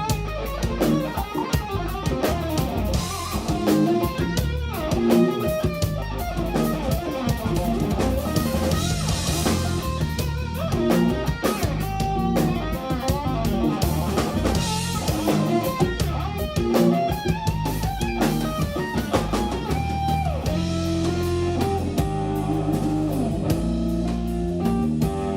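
Live instrumental jazz-rock fusion: electric guitar playing over bass guitar and drum kit, continuous and loud.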